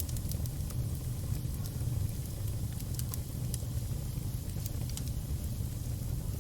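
Fire crackling: scattered, irregular sharp pops and snaps over a steady low rumble of the flames.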